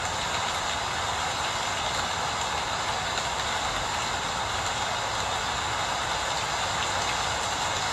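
Steady rain falling: a continuous, even hiss with no single drops or pauses standing out.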